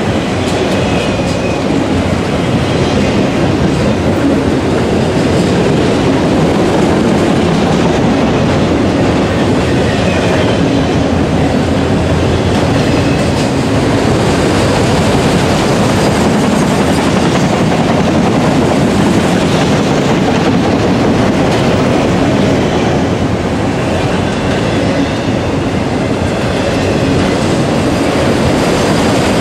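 Freight train of enclosed autorack cars rolling past close by: a loud, steady rumble and clatter of steel wheels on the rails, with brief faint wheel squeals now and then.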